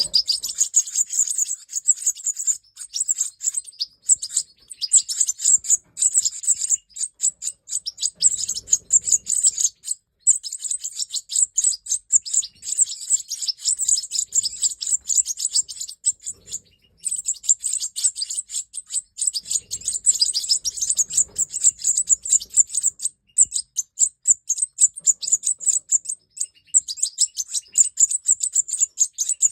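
European goldfinches of the large Major race singing: a rapid, high-pitched twittering song that runs almost without a break, with a few short pauses.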